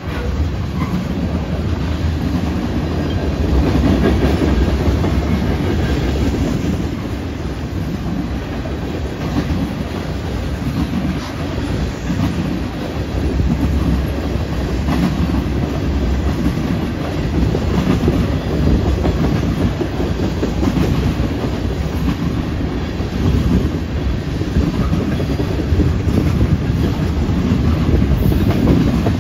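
A freight train's tank cars rolling steadily past at close range: a continuous rumble of steel wheels on the rails, with repeated clicking as the wheels pass over the track.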